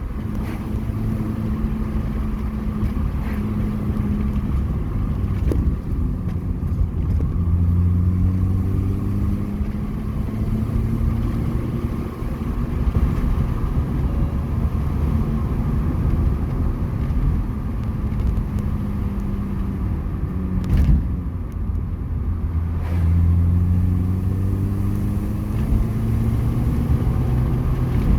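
Mini Cooper S R53's supercharged 1.6-litre four-cylinder engine running on the move, with tyre and road noise. Its pitch climbs twice as the car accelerates, dropping back in between.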